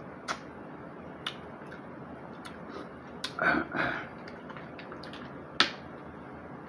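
Eating sounds from a mukbang of mussels and snow crab: a few sharp clicks spaced seconds apart, the loudest near the end, and a short, louder mouth sound about halfway through.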